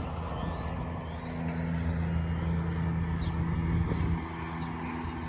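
Steady low engine hum with a constant pitch, over a background hiss; the hum fades about four seconds in.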